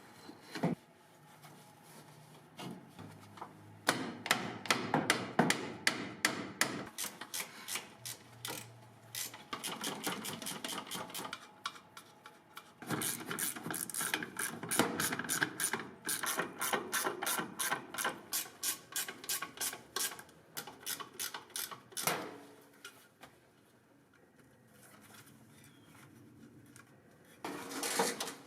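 Quick repeated rasping strokes of a hand tool working on a part, several a second, in two long runs with a short break between, then a quieter stretch and a brief burst of strokes at the end.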